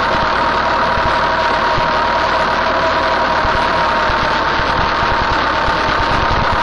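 Farm tractor engine running steadily while the tractor works, with a steady whine riding over the engine noise.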